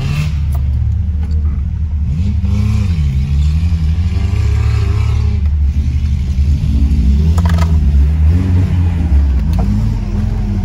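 Off-road vehicle engine running under load, its revs rising and falling several times over a steady low drone, with a couple of brief knocks.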